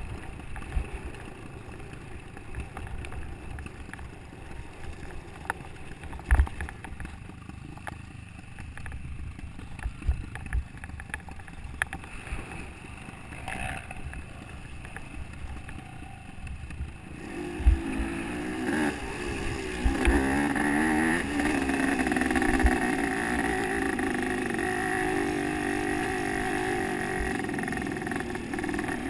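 Wind and scattered knocks on the microphone, then a little over halfway in a motocross bike's engine comes in louder and keeps running, its pitch wavering as it revs.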